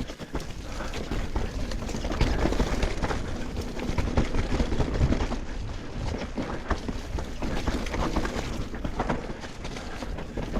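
Mountain bike descending a rough dirt trail: tyres rumbling over the ground, with a constant clatter of knocks and rattles from the chain, frame and suspension.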